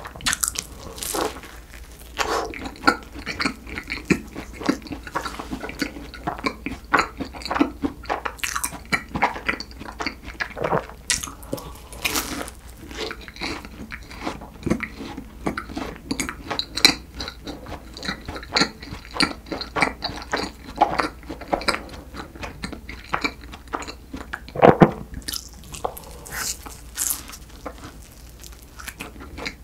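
Close-miked biting, crunching and chewing of a flaky chocolate-glazed croissant pastry, with dense crisp crackles from the layered crust. One louder crunching bite comes about five seconds before the end.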